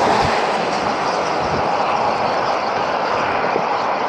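Steady rushing wind noise over the microphone while riding an electric motor scooter at road speed.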